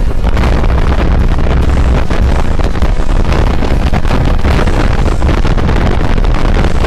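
Loud, steady wind rush and low buffeting on the microphone of a Honda Varadero XL1000 motorcycle ridden at road speed, mixed with engine and road noise.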